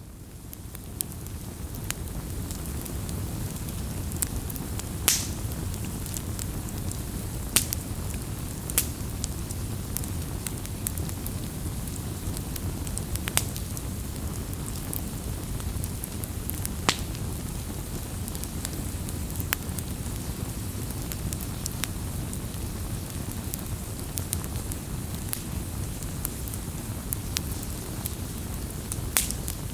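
Bonfire burning: a steady low rumble of flames with scattered sharp crackles and pops, fading in over the first couple of seconds.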